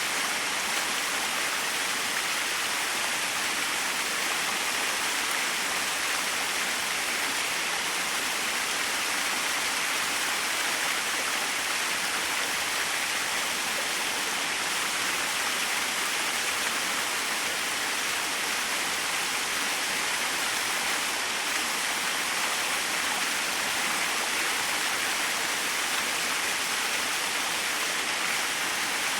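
Small waterfall running steadily, with a constant hiss of falling and splashing water that holds the same level throughout.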